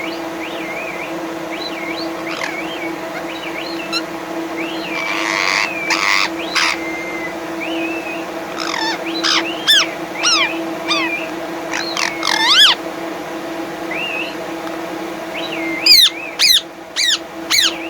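Parrot calls: repeated gliding whistles and chirps, a burst of harsh squawks about six seconds in, and loud sharp whistles near the end, over a steady hum.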